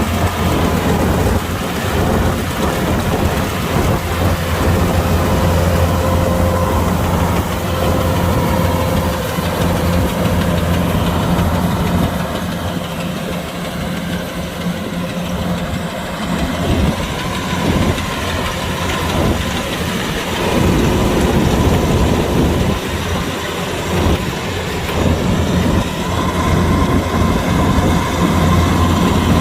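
Kubota DC-105X combine harvester's diesel engine running steadily, a loud continuous hum with faint steady whining tones over it.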